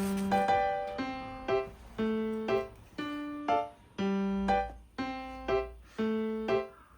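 Background music: a simple piano melody, single notes struck about twice a second, each ringing and fading, in a repeating pattern.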